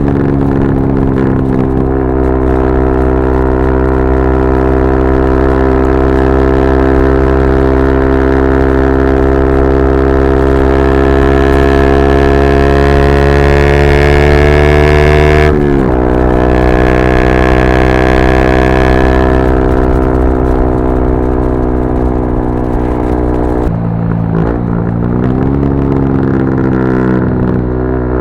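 Yamaha R125's single-cylinder four-stroke engine through a straight-pipe Dominator GP exhaust, pulling under load on a ride. The pitch rises slowly for about fifteen seconds, drops sharply at an upshift and climbs again, then levels off and dips and wavers with throttle changes near the end.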